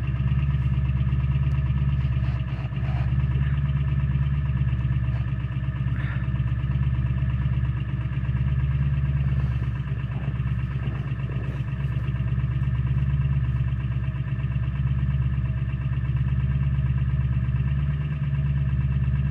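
Ford 7.3 Power Stroke turbo-diesel V8 idling steadily at its right-hand exhaust outlet, still cold shortly after a cold start in about −16 °C. The sound is deep and even, with slight swells in loudness.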